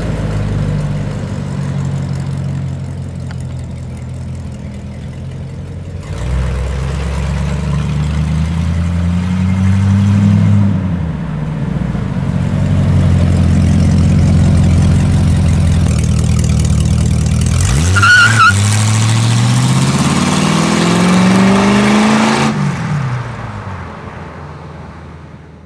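Rover 3.5-litre V8 in a Mazda Bongo truck running, rising in pitch twice as it accelerates, with a brief high squeal about eighteen seconds in. The engine sound cuts off sharply near the end and then fades away.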